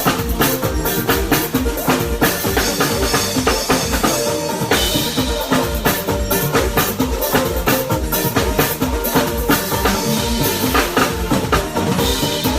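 Live band playing a steady groove at a sound check, with a full drum kit (kick and snare) driving the rhythm under bass and sustained keyboard or guitar notes.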